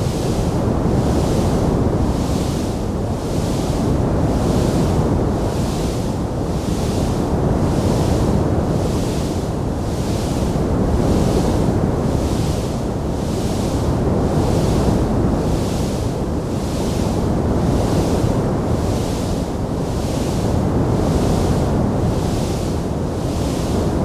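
Steady, dense rushing roar of a wood fire burning in a fireplace, with no separate crackles standing out. A hiss in the upper range pulses evenly, about three times every two seconds.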